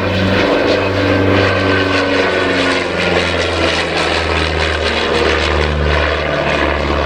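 A Miles Gemini twin-engined light aircraft flying its display, its propeller engines giving a steady drone that drops slightly in pitch about halfway through.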